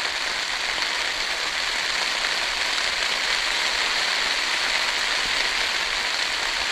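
Heavy rain falling steadily on a tarp overhead, an even hiss with no let-up.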